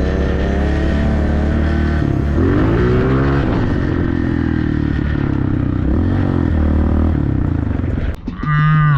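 Small dirt bike engine revving up and down as it is ridden on snow, its pitch rising and falling repeatedly. About eight seconds in, the sound breaks off with a sharp knock, then comes back with higher, wavering revs.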